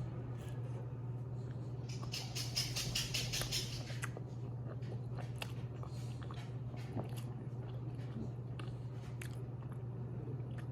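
A person chewing pepperoni pizza close to the microphone, with wet mouth clicks. About two seconds in there is a denser, crunchier run of bites. A steady low hum sits underneath.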